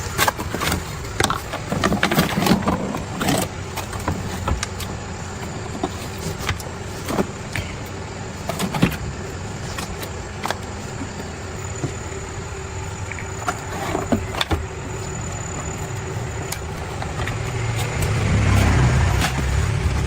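A machine running with a steady hum, with scattered sharp clicks and knocks, and a louder low rumble building near the end.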